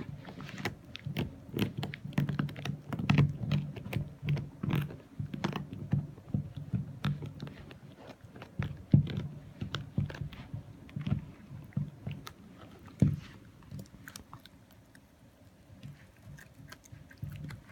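A puppy chewing, with a run of irregular crunches and clicks that thins out near the end.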